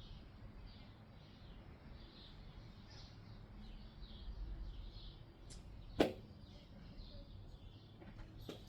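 Faint bird chirping, short calls repeated about twice a second over a low steady background hum, with one sharp click about six seconds in.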